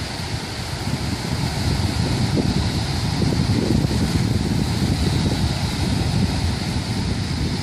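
Wind buffeting the microphone by the sea: a steady low rumble that swells and eases in gusts, with the hiss of waves behind it.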